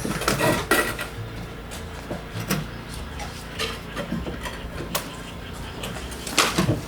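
Scattered light knocks and clicks of handwork, irregular and spaced out, with a louder cluster near the end.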